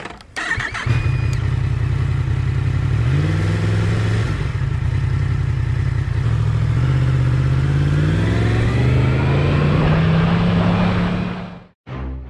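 Yamaha MT-10's cross-plane inline-four engine running hard under acceleration, its pitch stepping up about three seconds in and climbing steadily through the second half. The engine sound cuts off abruptly near the end.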